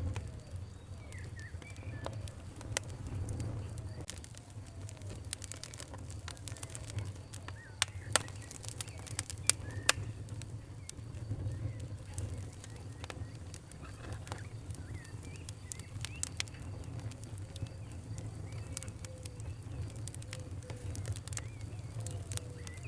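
Fire crackling, with irregular sharp pops over a steady low rumble; a few louder pops come close together around eight to ten seconds in. Birds call faintly in the background.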